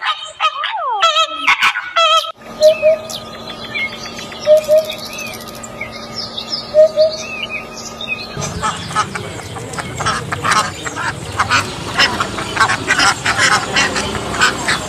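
A string of bird sounds. First comes flamingo honking, with gliding, bending calls. Next is a hoopoe's soft low 'hoop-hoop' call, given three times a couple of seconds apart, with faint chirping behind it. The last part, from about eight seconds in, is a dense rapid run of sharp clicks and calls from a duck.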